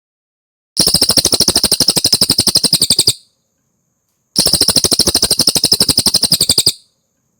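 A cililin bird singing two fast, rattling trills of evenly repeated high notes, about ten a second, each trill lasting a little over two seconds with a short pause between them.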